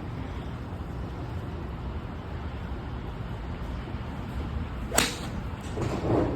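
A golf club striking a ball at a driving range: one sharp crack about five seconds in, over a steady low background noise.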